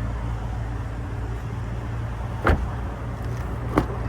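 Pickup truck idling with a steady low hum, with two short sharp clicks about two and a half and nearly four seconds in.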